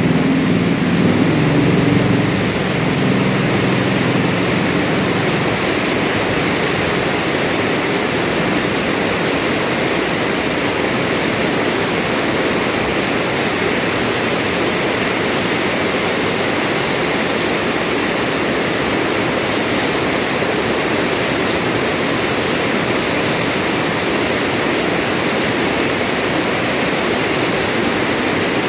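Steady rain falling, an even dense hiss. A low rumble underneath fades out over the first few seconds.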